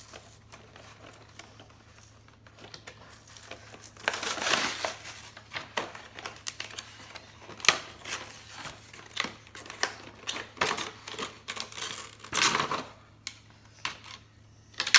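Toy car packaging being opened by hand: plastic and cardboard crinkling and tearing, with scattered clicks and two louder rustling stretches, about four seconds in and near the end.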